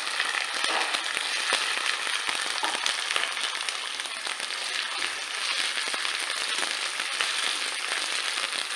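Crushed ginger, garlic and green chilli with chopped onion frying in hot oil in a kadhai, a steady, dense sizzle full of fine crackles as it is stirred with a slotted spatula.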